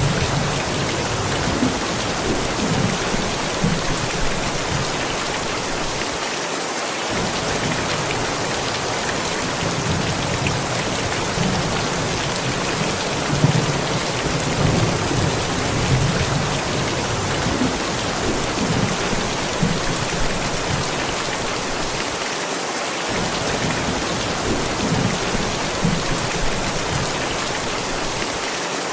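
Steady rain falling, with thunder rumbling low in the background on and off.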